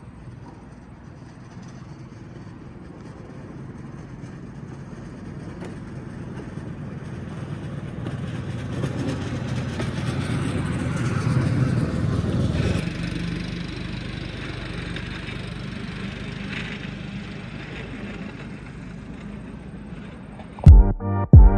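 Small motorised rail fire-patrol vehicle running along the track. Its engine grows louder as it approaches, drops off sharply once it has passed, and carries on more quietly. Electronic music with a heavy beat cuts in near the end.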